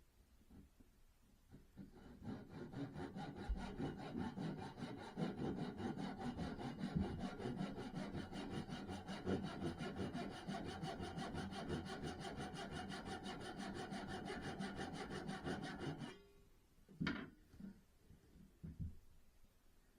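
A saw cutting through wood, running steadily for about fourteen seconds and stopping suddenly, followed a second later by a single sharp knock.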